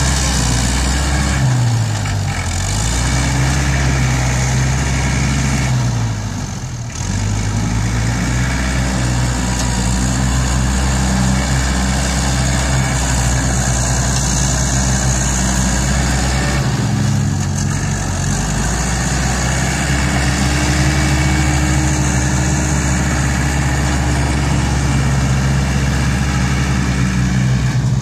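ISEKI NT554 tractor's diesel engine running hard while pushing soil, its pitch dipping and recovering three times.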